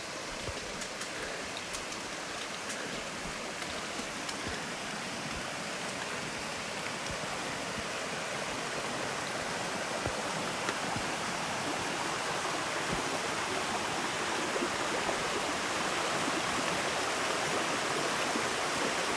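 Rushing water of a small waterfall on a mountain stream, a steady noisy rush that grows gradually louder.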